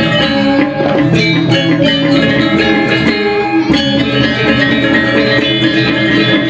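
Balinese gamelan ensemble playing a tabuh kreasi: metallophones ringing in dense, fast patterns with sharp struck accents throughout.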